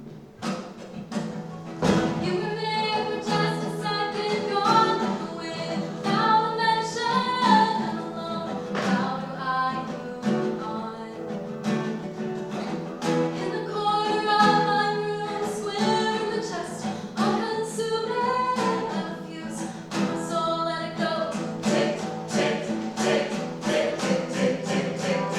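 Singing accompanied by acoustic guitar, with a melodic vocal line over steady low chords and plucked notes.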